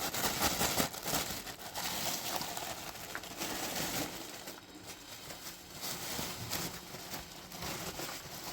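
Irregular rustling and crinkling handling noise, made of many small scattered clicks.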